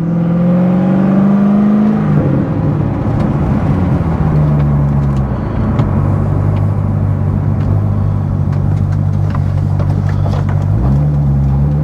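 Corvette C6 Z06's 7.0-litre LS7 V8 pulling through the gears, heard from inside the cabin with the windows up. The engine note climbs and drops with gear changes about two and five seconds in, holds steady, then drops and climbs again near the end.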